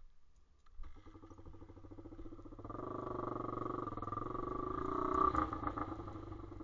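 Pit bike engine starting about a second in and running. It grows louder as it is revved from about three seconds in, then eases back near the end.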